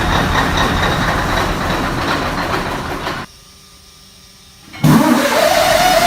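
Caterpillar 18-litre V8 diesel (Cat 3408) in a Kenworth truck running on a cold start after weeks of sitting. About three seconds in the sound drops abruptly to a faint background for about a second and a half. It then returns loud, with a whine that rises and holds a steady pitch.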